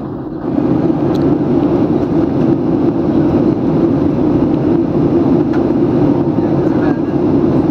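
Boeing 737-800 cabin noise: a steady, deep jet drone heard from inside the cabin.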